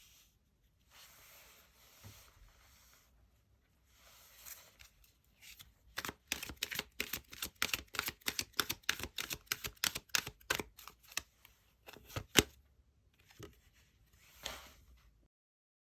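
Tarot cards being handled and shuffled: soft rustling of the deck, then a fast run of sharp card clicks, about five a second, ending with one louder snap.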